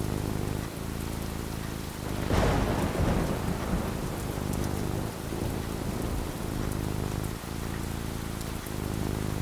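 Steady rain falling, with a clap of thunder a little over two seconds in that rumbles away over the next second or two.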